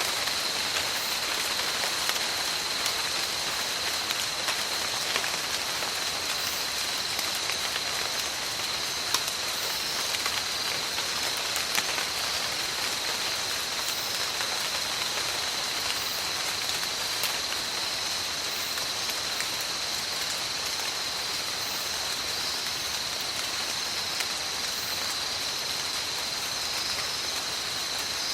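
Steady heavy rain in a tropical forest, falling on leaves and surfaces, with a few louder individual drop hits. A steady high-pitched tone sits above the rain.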